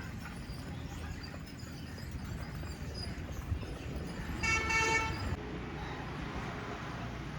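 A vehicle horn honks once, about half a second, midway through, over a steady background rumble of street traffic.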